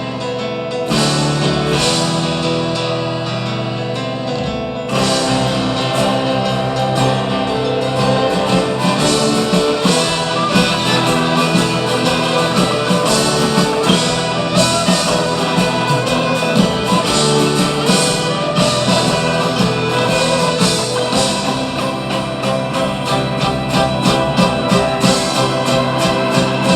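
Live folk-rock band music: strummed acoustic guitar with singing. The fuller band comes in with a steady beat about five seconds in.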